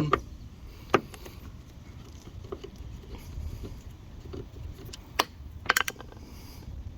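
Scattered clicks and taps of a hand screwdriver working a screw out of a car door panel: a sharp click about a second in and a quick run of clicks past the middle.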